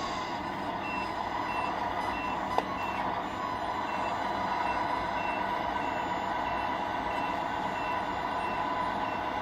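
Radio-controlled Tamiya scale truck's sound unit sounding its reversing beeper, about two short high beeps a second, over steady simulated diesel engine noise. A single sharp click comes about two and a half seconds in.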